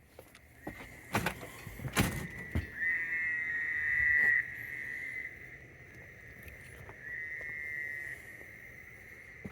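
Frogs trilling in the evening: long, high trills lasting a second or more each, over a steady chorus. Two sharp knocks sound about one and two seconds in.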